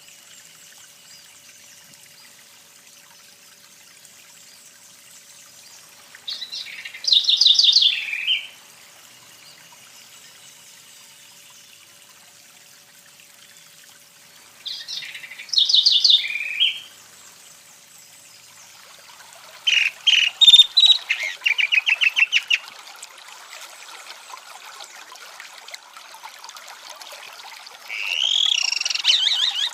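A songbird singing short phrases of clear, warbled notes, several seconds apart, with a fast run of rapidly repeated notes about two-thirds of the way through, over a faint steady background hiss.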